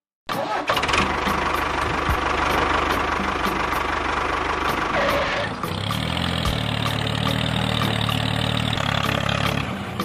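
A tractor engine running, starting abruptly; it is busier and higher-pitched for about the first five seconds, then settles into a lower, steady running sound.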